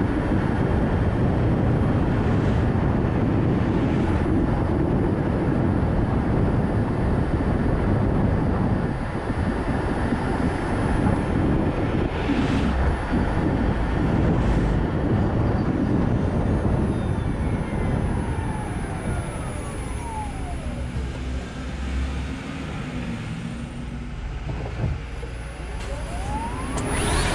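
Road noise from a Nissan Note e-POWER on the move: steady tyre and wind noise. The noise eases off about two-thirds of the way through as the car slows. A faint whine falls in pitch, then another rises near the end as it picks up speed again.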